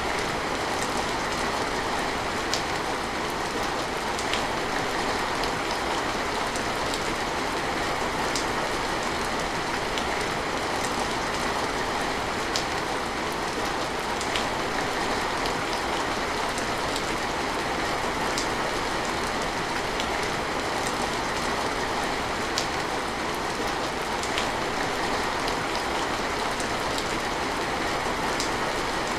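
Steady heavy rain, an even hiss with scattered faint drip ticks.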